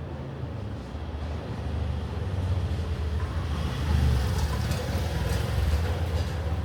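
Steady low rumble of a moving vehicle, growing louder about halfway through.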